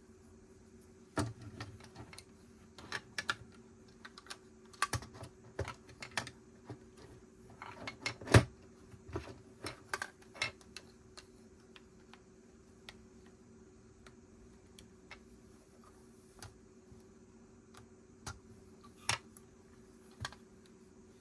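Hard plastic Lego pieces clicking and clattering as they are handled, picked through and pressed together, in quick irregular clicks for the first half and sparser ones later.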